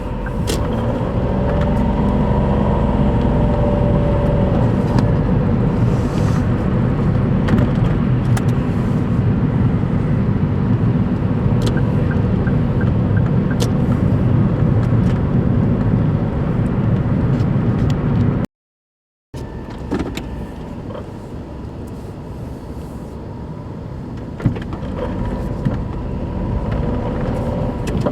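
Daihatsu Move Custom RS (L175S) 660 cc three-cylinder engine running. It is louder for the first two-thirds, cuts off briefly, then runs on more quietly with a few light clicks. The extra engine noise comes from a worn, torn engine mount bushing.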